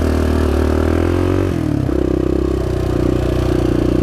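Suzuki 400 single-cylinder four-stroke engine running under way, its pitch creeping up, then dipping briefly about a second and a half in before settling into steady running.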